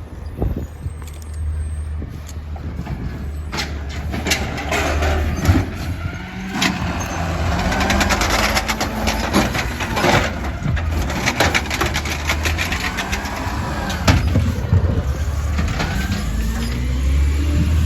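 Compost collection truck's engine running steadily, with repeated clanks and knocks and a pitched whine that slides up and down, rising near the end.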